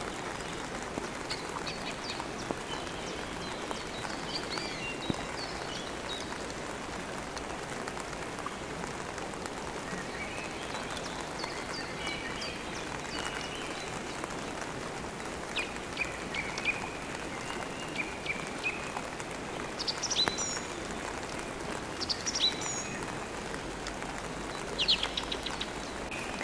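Steady rain falling, with songbirds chirping on and off, more often and louder in the second half.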